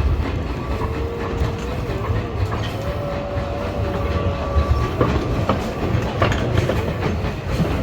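Train running on track, heard as a steady low rumble with scattered clicks over the rail joints. A few thin, wavering high tones come and go over it.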